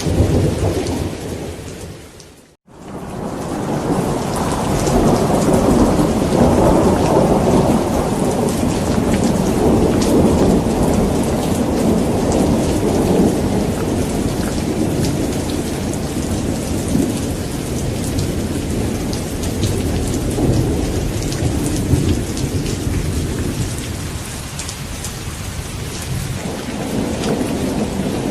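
Steady rain with rolling, continuous thunder rumble. The sound fades to a brief gap about two and a half seconds in, then swells back.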